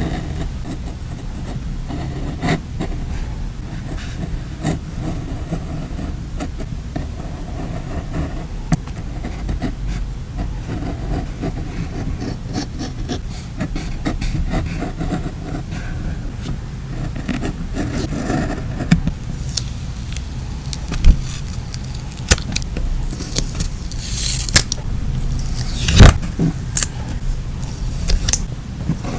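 Close-up craft sounds of stickers and paper being handled on a journal page: small taps, crinkles and scrapes, a few sharper clicks, and a longer rustling sweep near the end, over a steady low hum.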